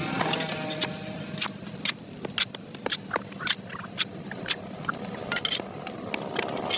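A hand tool scraping and knocking on pavement: a string of sharp clicks and short scrapes, unevenly spaced, roughly two a second.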